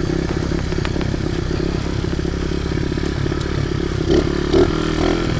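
Chinese pit bike's small single-cylinder engine running steadily at a raised speed, with a light rattle from the bike. The engine hangs revved up without throttle, the fault the rider can't cure: it won't drop back to idle.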